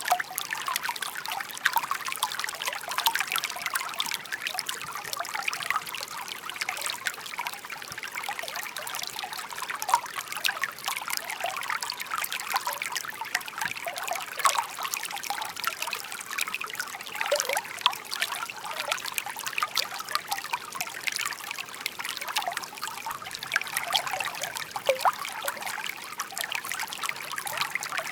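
Shallow park stream babbling over stones: a steady trickling and splashing of running water, full of small bright splashes.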